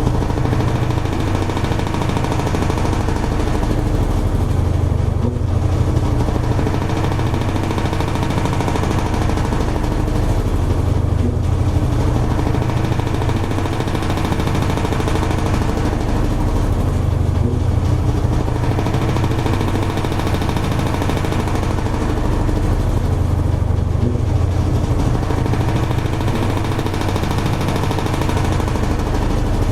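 Toshiba AW-42SEE4 top-loading fully automatic washing machine running mid-cycle, with a steady low motor hum and a sound that swells and eases about every six seconds.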